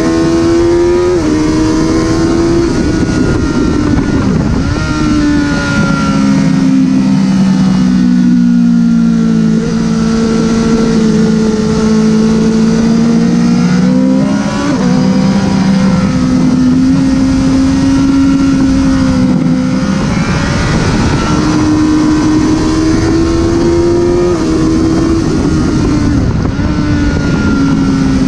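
Honda CBR1000RR inline-four engine at speed on track: the revs climb and step down with each gear change several times, then fall away under braking and hold through long corners before climbing again. A broad rush of wind noise runs under the engine.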